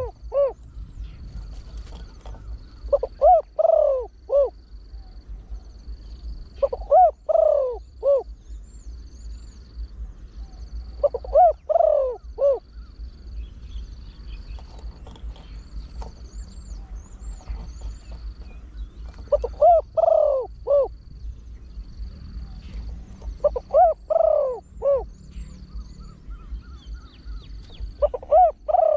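Spotted dove (large-voiced trained bird) cooing, repeating a phrase of several short deep coos about every four seconds, with a longer pause mid-way. A faint, evenly pulsing high tone and small high chirps from other birds sound behind it.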